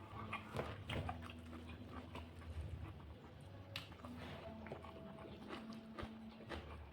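A person eating fish curry, chewing with scattered small, quiet mouth clicks.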